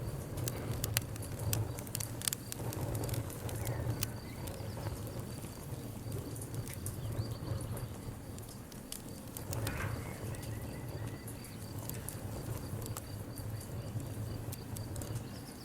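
Wood fire burning, with irregular sharp crackles and pops of the burning wood over a steady low rumble of the flames.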